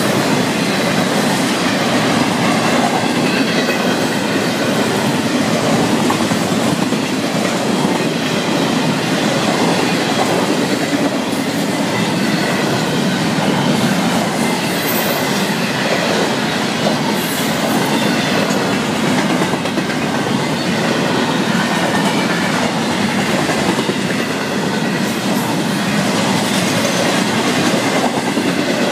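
Florida East Coast Railway intermodal freight train passing close by: the steady rumble and clatter of steel wheels on the rails as double-stack container and trailer cars roll past.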